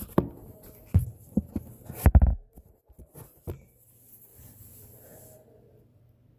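A series of irregular dull thumps and knocks, the loudest about two seconds in, then a faint low hum.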